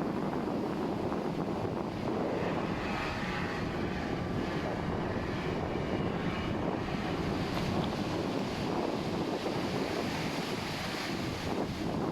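Ocean surf washing on the shore, mixed with wind buffeting the microphone.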